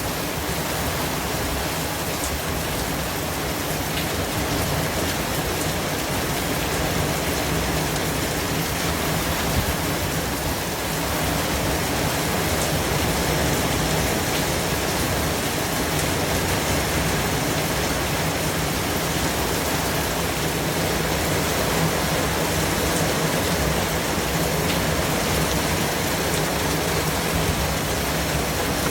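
Steady white-noise hiss spread evenly from low to high pitches, with a few faint ticks; it grows slightly louder about eleven seconds in.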